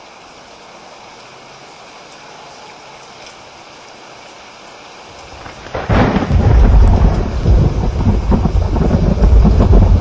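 Steady rain, then a thunderclap breaks about six seconds in and rolls on as loud rumbling thunder over the rain.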